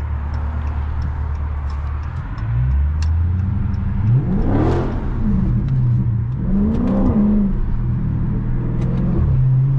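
Dodge Charger Scat Pack's 392 Hemi V8 running steadily, then revving up and back down twice, about five and seven seconds in.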